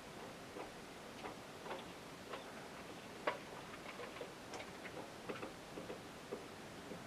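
Irregular light ticks and clicks from small birds, with one sharper click about three seconds in.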